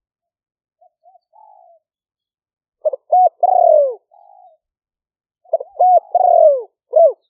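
Spotted dove cooing: two loud phrases, each a few short coos ending in a longer note that slides down in pitch, with soft short notes before and between them.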